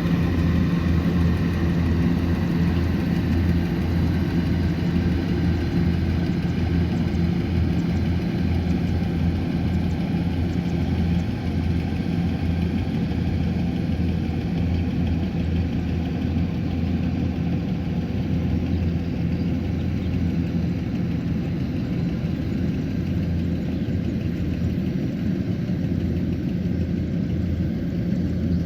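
Kubota combine harvester's diesel engine running steadily with a low hum, its higher-pitched whine easing off about halfway through.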